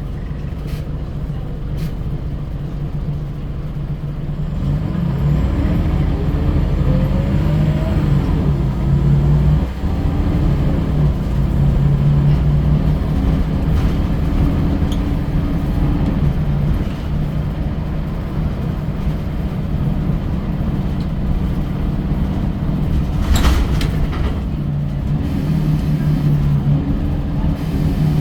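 Scania L94UB bus's diesel engine pulling away and gaining speed, its note rising, with a short dip at a gear change about ten seconds in, then running steadily under load. A brief sharp rattle about 23 seconds in.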